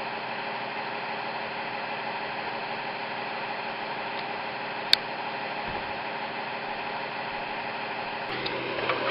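Steady hiss with a faint low hum, and one sharp click about five seconds in.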